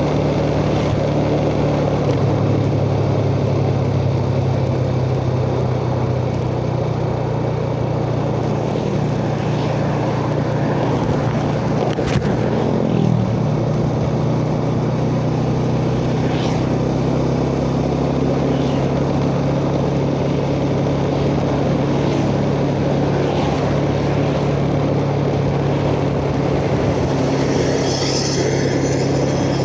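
Yamaha Jupiter Z underbone motorcycle's single-cylinder four-stroke engine running steadily at cruising speed, heard from the rider's chest over wind and road noise. The engine note dips briefly about thirteen seconds in.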